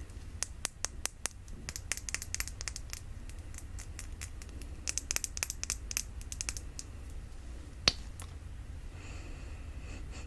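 Fingernails tapping and scratching on a tiny glass perfume bottle: quick clusters of light, crisp clicks, with one sharper click near the end.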